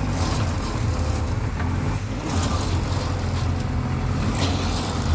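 Heavy diesel engine running steadily at a low, even speed, with a low pulsing hum.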